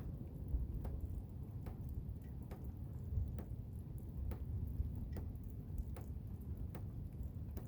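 Blizzard wind rumbling low and unsteadily, with irregular sharp ticks about once or twice a second.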